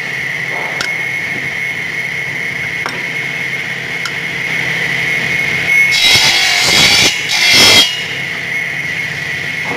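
Sawmill saw machinery running with a steady high whine and low hum. About six seconds in, the blade cuts through wood in two loud, harsh surges lasting about two seconds together.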